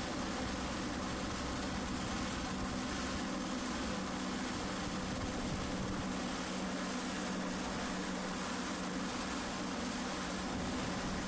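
Wind blowing in a steady, even rush, with a low steady hum underneath.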